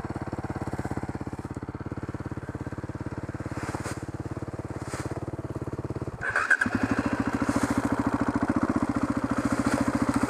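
Enduro motorcycle engine idling with an even, rapid beat. About six seconds in it breaks off for a moment, then comes back louder and keeps idling steadily.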